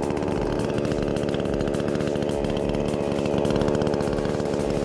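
Chainsaw engine running steadily at high revs, a little louder about three and a half seconds in.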